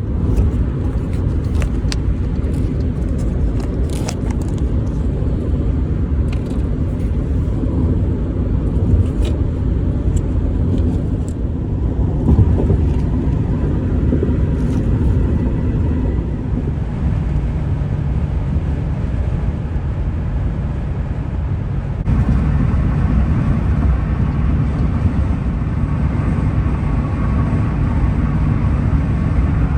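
A car driving along a road: a steady rumble of road and engine noise, with scattered light clicks in the first half and a step up in loudness about 22 seconds in.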